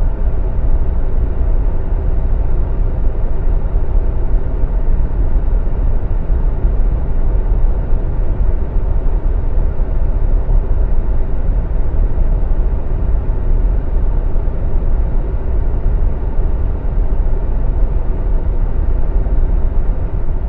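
Jet airliner engines giving a steady, loud low rumble.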